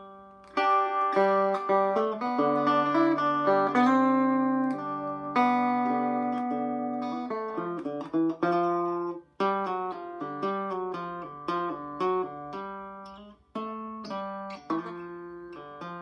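Electric Vega banjo (circa 1936–37) picked in melodic style: a quick run of single ringing notes, with brief pauses about 9 and 13 seconds in.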